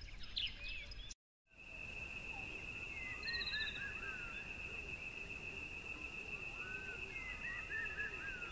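Outdoor ambience of birds chirping, cut off by a brief dropout about a second in; after it a steady high-pitched whine runs on under scattered chirping bird calls.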